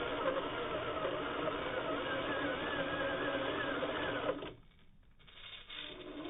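Small electric motor and gear drive of a micro RC crawler (Axial SCX24 running gear) whining, its pitch wavering with throttle. It cuts out about four and a half seconds in, then comes back fainter near the end.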